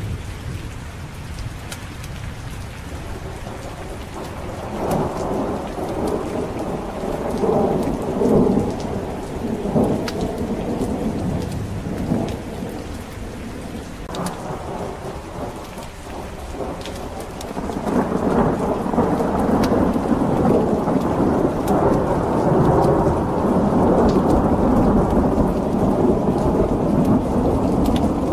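Steady rain with thunder rolling through it. One rumble swells about five seconds in and dies away by the middle. A louder, longer roll builds about two-thirds of the way through and carries on.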